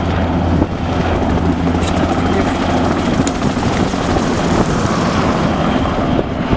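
Aircraft flying past overhead: loud, steady engine noise with a low hum underneath, the higher hiss thinning out near the end.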